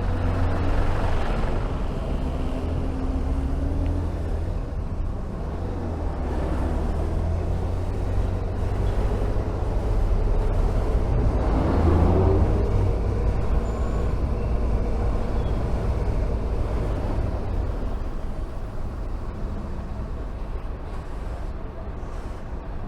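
Honda VFR1200F V4 motorcycle engine running in traffic, its pitch rising as it accelerates about twelve seconds in, over a steady low rumble.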